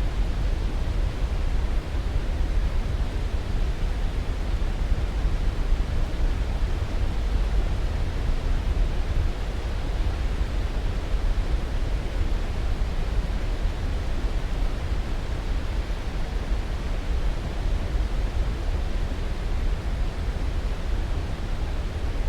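Steady sleep-aid noise: an even, unbroken hiss that is heaviest in the deep low end and thins out toward the treble, with no changes or separate events.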